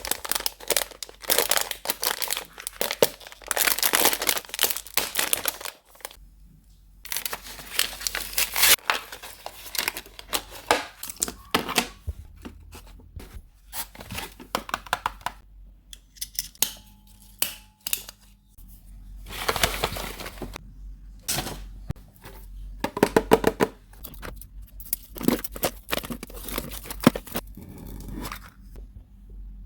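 Packaging being torn open and crinkled by hand, in bursts of crackling with short pauses between them.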